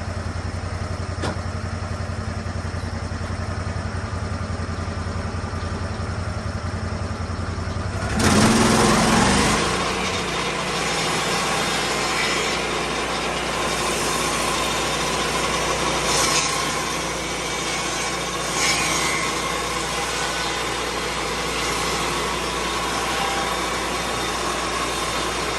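Lucas Mill 10-30 swing-blade sawmill engine idling steadily, then about eight seconds in it is throttled up and the circular blade cuts into a white pine log, a steady sawing noise over the running engine for the rest of the time.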